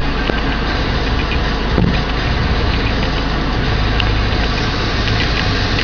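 Car engine idling, heard from inside the cabin as a steady low rumble, with a single thump a little under two seconds in.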